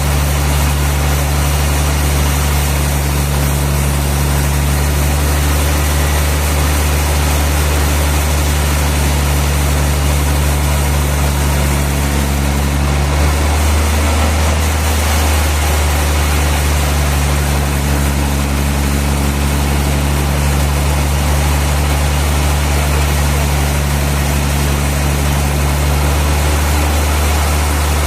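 Sawmill machinery running steadily: a loud low engine-like hum under a broad hiss. About halfway through, the hum changes for a few seconds, then settles back.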